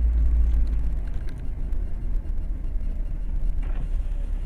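Steady low rumble of a car and road as picked up by a dashcam, with a few faint ticks.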